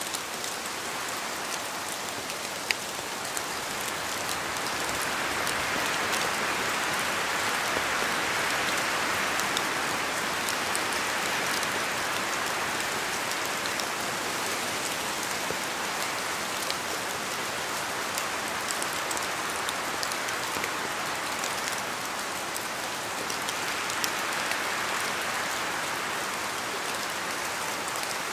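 Steady rain falling: a dense, even hiss with scattered sharper drop ticks, growing a little heavier for several seconds after the start and briefly again near the end.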